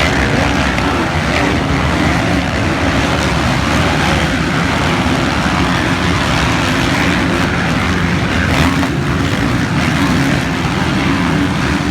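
Motocross bike engines racing: a dense, steady engine noise with no pauses.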